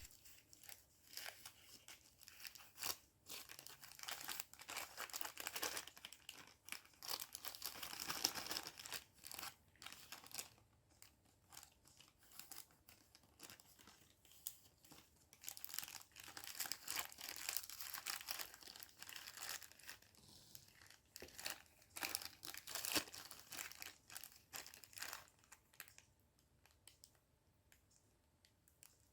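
Faint crinkling and rustling with scattered light clicks, coming in bursts with quiet gaps in the middle and near the end.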